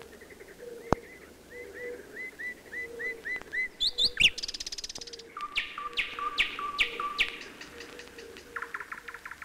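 Birdsong: a run of evenly repeated short chirps, then a fast high trill and a series of sharp falling notes over a held whistle, ending in a short buzzy trill. A single sharp click about a second in.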